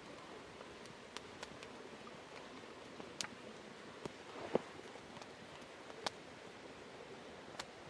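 Wood campfire crackling: scattered sharp pops and ticks over a steady low hiss, with one louder pop about halfway through.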